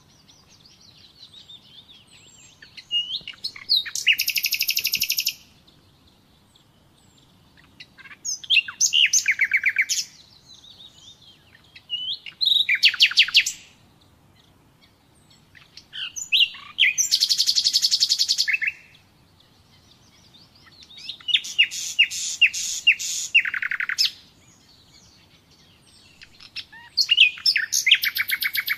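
Common nightingale singing: about six separate phrases of rapid repeated notes and trills, each one to three seconds long, with pauses of a few seconds between them.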